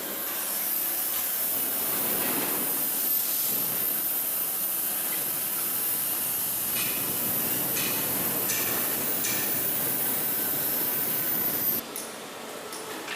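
A steady high hiss that cuts off suddenly a second or so before the end, with a few faint knocks under it.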